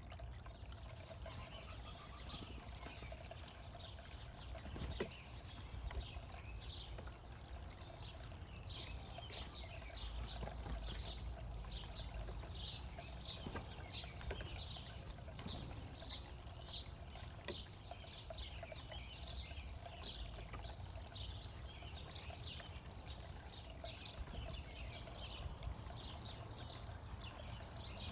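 Small birds chirping over and over, short high calls a little more than once a second, over a low steady outdoor rumble, with a couple of faint clicks.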